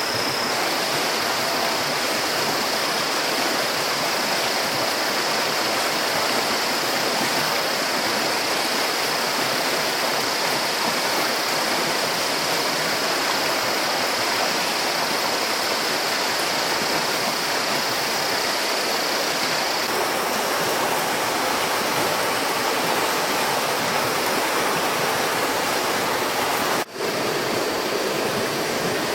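Steady rushing water, with a thin high-pitched steady tone above it that stops about two-thirds of the way through. There is a brief sharp drop in level near the end.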